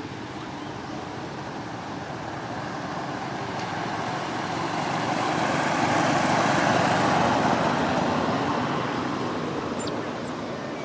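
A road vehicle passing by: a steady rush of engine and tyre noise that builds to its loudest about six or seven seconds in, then fades.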